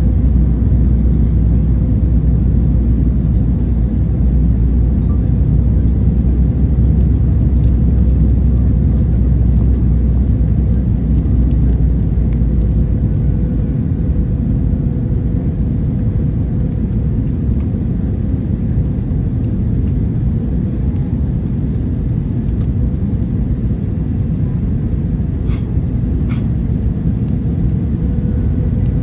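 Steady cabin rumble of an Airbus A321-200 in flight, engines and airflow heard from an economy window seat, with a faint steady hum above it. The deepest part of the rumble drops away about halfway through.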